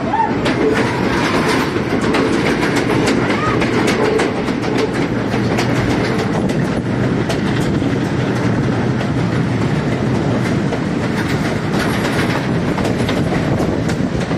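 Passenger train running steadily, its wheels clattering over the rail joints in a constant stream of clicks and rumble, heard from an open carriage window.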